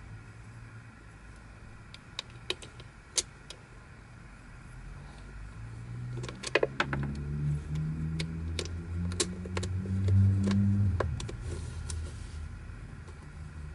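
Plastic twisty-puzzle pieces clicking and knocking as they are handled, a dense run of clicks about six to seven seconds in. Under them a low hum swells from about six seconds in, is loudest around ten seconds, and fades by about twelve.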